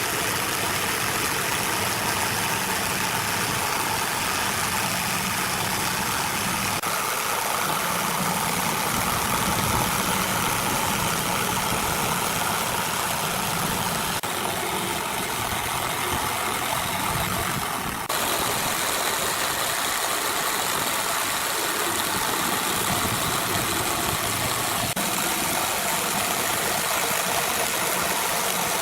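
A power tool running steadily, its sound shifting abruptly a few times.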